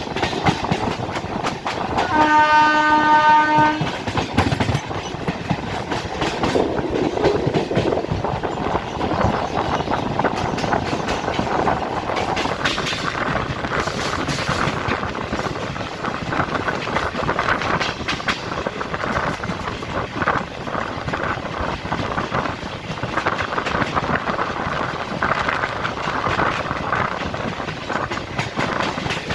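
Old electric multiple-unit local train running, its wheels clattering steadily over the rail joints, heard on board. About two seconds in, a horn sounds once for about a second and a half.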